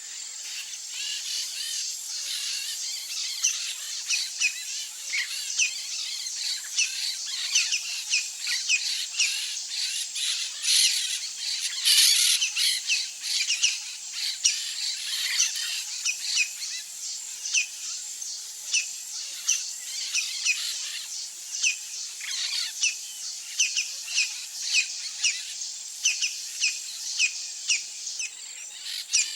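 Wild birds chirping in a dense chorus, many short, high, downward-slurred notes coming one to several a second, over a steady high-pitched insect drone.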